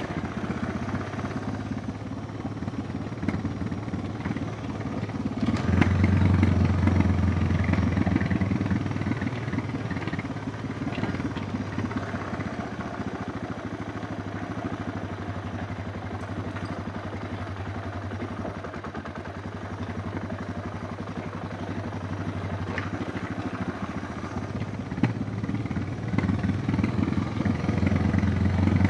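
Suzuki DR650's single-cylinder engine running as the motorcycle is ridden. It gets louder about six seconds in, eases off through the middle and picks up again near the end.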